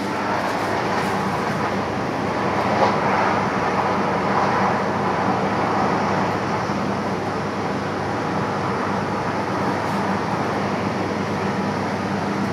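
Running noise of a passenger train heard from inside the carriage while it travels: a steady rolling rumble of wheels on rails, with a steady low hum under it.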